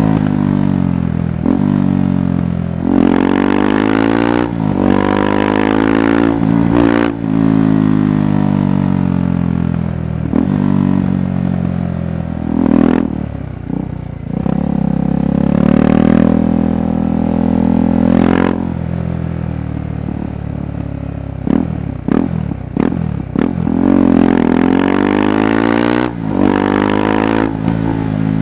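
KTM 390 Adventure's single-cylinder engine and exhaust under way, the pitch climbing and falling again and again as the throttle is opened and closed, with a choppy stretch of quick on-off throttle roughly two-thirds of the way in.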